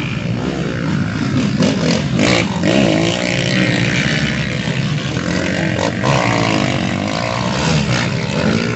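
Motorcycle engine running and revving, its pitch rising and falling.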